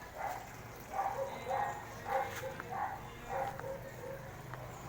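A dog barking repeatedly in short, evenly spaced barks, over a steady low hum.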